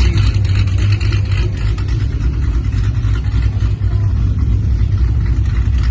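Car engine and exhaust rumbling steadily at low revs as the car rolls by.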